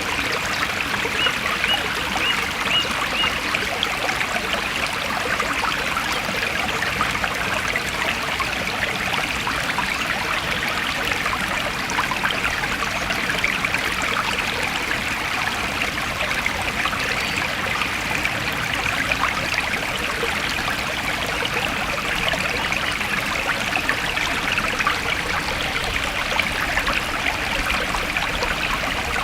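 A forest stream flowing steadily: an even, continuous rush and trickle of running water.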